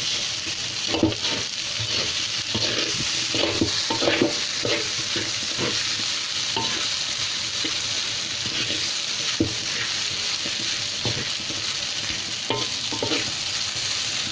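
Fried rice sizzling in a hot wok while a wooden spatula stirs and turns it, a steady sizzle with irregular scraping strokes of the spatula against the pan.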